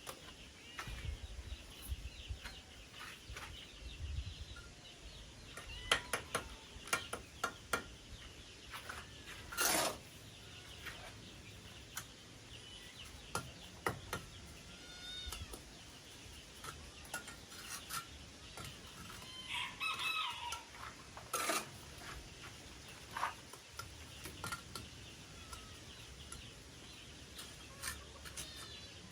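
Chickens clucking, with a rooster crowing once about two-thirds of the way through, among scattered sharp knocks and taps.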